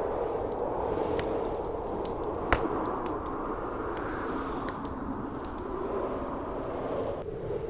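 Wood fire crackling in a fireplace, with scattered sharp pops and one loud crack about two and a half seconds in, over the steady rush of blizzard wind, which turns duller near the end.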